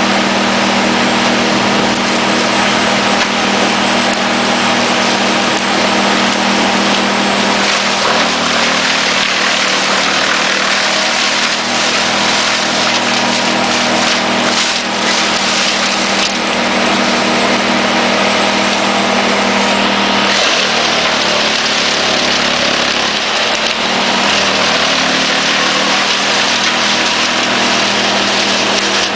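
Forwarder-mounted Erjo 9/93 wood chipper running loudly: a steady heavy engine drone with a dense rushing noise above it. The engine note shifts about 8 seconds in and again around 20 seconds.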